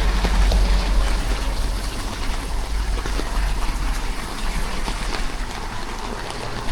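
Wind rumbling steadily on the microphone over an even hiss of rain and wet road, heard from a moving scooter.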